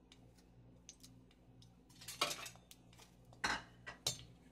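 Metal spoon clinking and scraping against a kadai while whole garam masala spices are stirred into the oil. There are a few sharper knocks about two, three and a half, and four seconds in.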